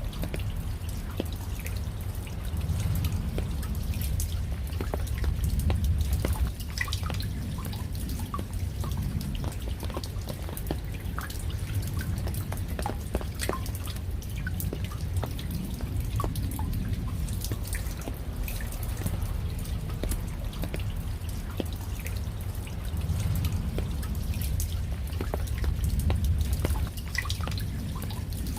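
Raindrops dripping and pattering in a scatter of sharp, irregular ticks over a steady low rumble that swells and eases now and then.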